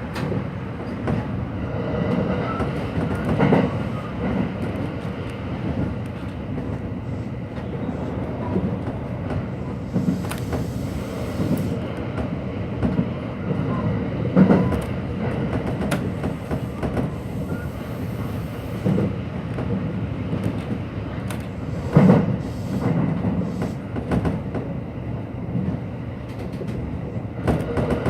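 Hanshin Electric Railway electric train running at speed, heard from inside the car: steady rumble of wheels on rail, with a few sharp louder knocks from the track.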